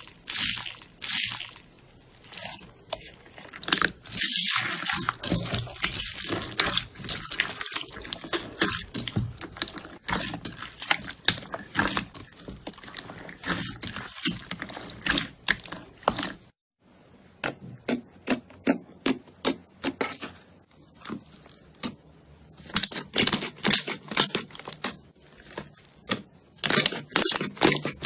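Slime being squeezed and pressed by hand: a dense run of wet clicks, pops and crackles, breaking off briefly about halfway before starting again.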